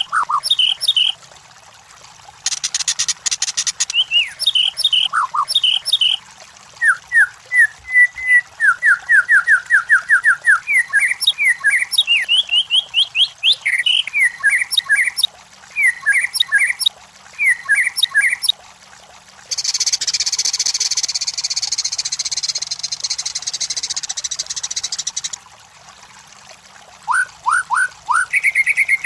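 White-rumped shama (murai batu) singing: quick runs of sharp whistled notes and rapid trills, with a short harsh buzz early on and a long harsh, rasping buzz of about six seconds in the middle.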